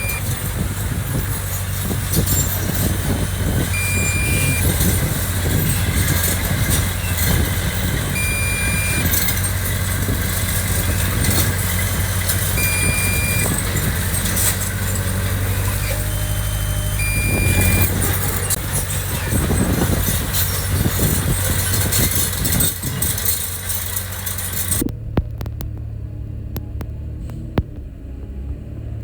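Diesel engine of heavy earthmoving machinery running steadily, with a short warning beep about every two seconds that alternates between two pitches. Near the end the busier working noise drops away suddenly, leaving a lower engine rumble with a few clicks.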